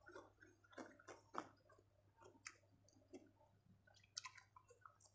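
A person chewing a mouthful of food close to a lapel microphone: faint, scattered wet mouth clicks and smacks, a few every second, over a faint steady low hum.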